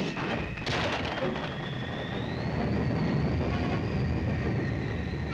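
A high whine that slowly rises and falls, over a low rumble, on an old cartoon soundtrack.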